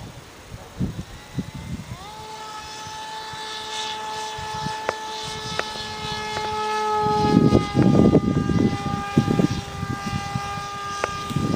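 Propeller motor of a pusher-propeller airplane rising quickly in pitch about two seconds in, then running at a steady whine that sags slightly in pitch near the end. From about seven seconds in, a loud rough low rumble and crackle rises over it.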